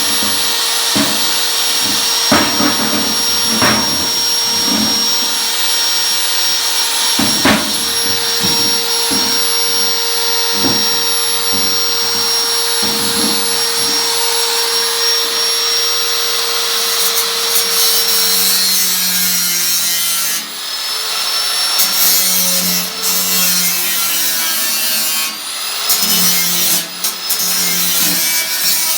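A power tool works the steel of an 18-litre can, running with a steady whine and scattered knocks, and stops about 18 seconds in. Slow back-and-forth rasping strokes follow, about one a second, like a file or hand saw on the sheet metal.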